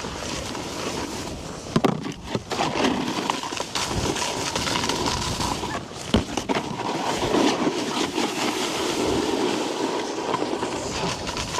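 Snowboard base and edges sliding and scraping over granular, sugary snow, a steady rough hiss, with a couple of sharp knocks near two and six seconds in.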